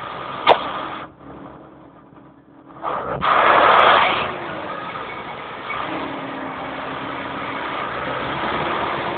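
Deutz tractor engines running in traffic, with a sharp click about half a second in and a loud swell of engine noise around three to four seconds in.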